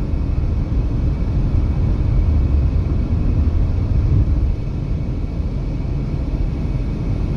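Steady low rumble of a moving car heard from inside the cabin: tyre and road noise with engine drone, easing slightly about four and a half seconds in.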